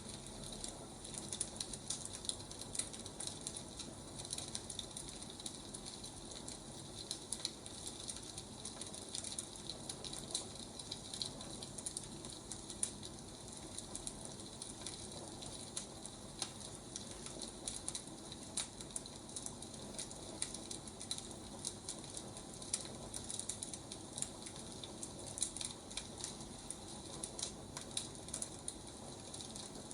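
Burning firewood crackling: irregular pops and snaps over a steady soft hiss.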